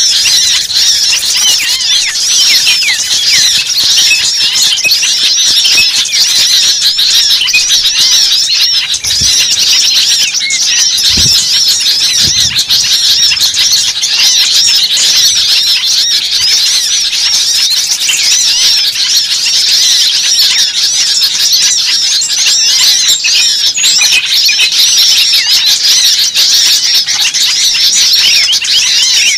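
Dense, unbroken chorus of many small birds chattering, chirping and squealing over one another. It is the frantic 'ribut' lure call that bird trappers play to draw small birds in.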